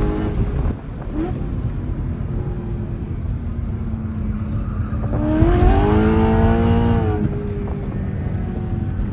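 Mercedes C63 AMG's 6.2-litre V8, with its secondary catalytic converters and resonators deleted, under hard driving. The note dips briefly about a second in and runs steadily. About five seconds in it climbs sharply in pitch and gets louder, then falls away about two seconds later.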